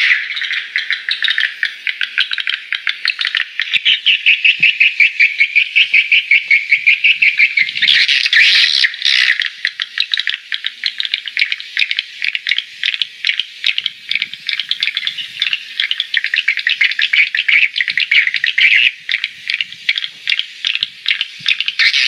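Swiftlets twittering: a continuous, dense, high chattering of rapid clicky chirps. About four seconds in there is a run of fast, even pulses.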